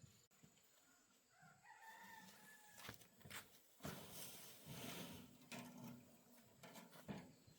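Faint rooster call, a short pitched crow about two seconds in, followed by scattered faint rustling and clicks.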